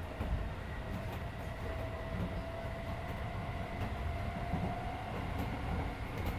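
Keisei 3400 series electric train running along the line, heard from inside the passenger car: a steady low rumble of wheels on rails with a whine that rises slightly in pitch, and a few faint ticks.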